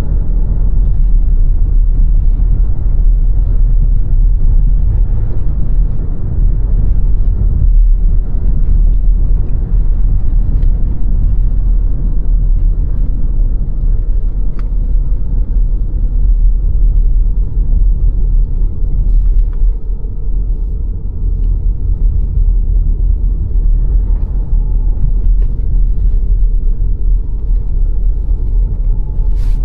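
Car driving at a steady speed: a steady low rumble of tyres on the road and the engine, with a few light ticks.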